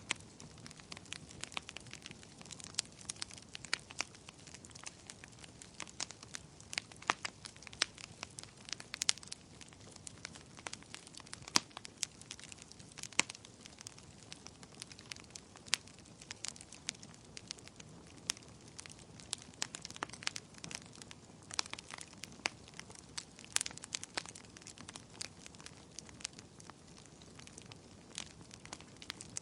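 Campfire burning, its wood crackling and popping in irregular sharp snaps over a low, steady hiss.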